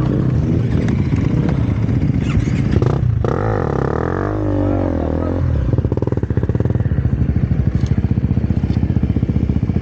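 Enduro motorcycle engine revving up and down, then settling from about six seconds in to low revs with an even, rapid pulsing beat.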